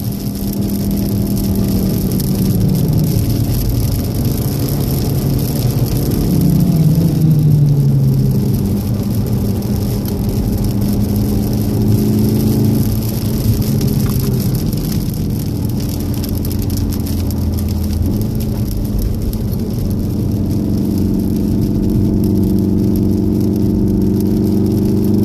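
Inside the cabin of a 2014 VW Golf R, its turbocharged 2.0-litre four-cylinder engine is under way on a wet track. The engine note drops as the car slows, then climbs again in the last few seconds as it accelerates, over a steady hiss from the wet road.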